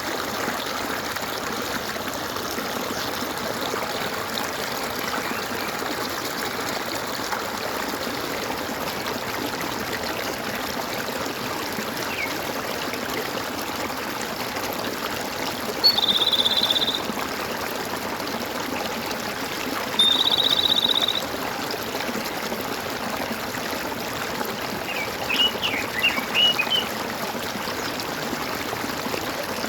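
Steady gurgling of running stream water. Over it come two high, buzzy trilled calls of about a second each, midway through, and a quick burst of bird chirps near the end.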